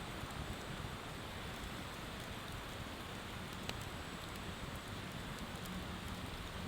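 Wood bonfire burning with sparse small crackles and one sharper pop about halfway through, over a steady rushing hiss of river water.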